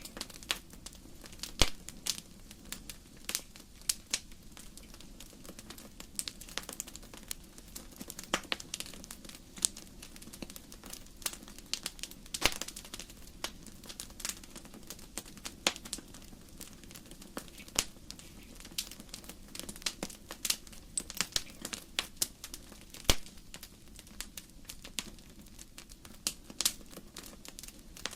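Wood fire in a fireplace crackling, with irregular sharp pops and snaps from the burning logs over a low steady hiss.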